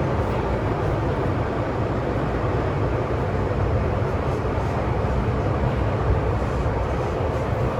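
Steady cabin noise inside an MTR M-train electric multiple unit: an even rumble with a faint low hum.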